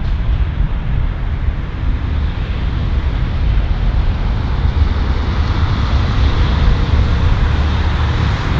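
Steady low rumble of a moving vehicle, slowly growing louder.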